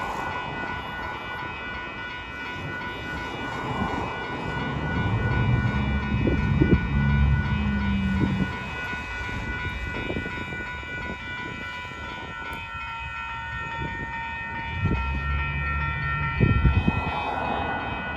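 Grade-crossing warning bells ringing steadily while the gates stay down after a hi-rail truck has cleared, which the railfan takes for a possible crossing malfunction. Twice, a lower vehicle sound with a few knocks swells up and fades.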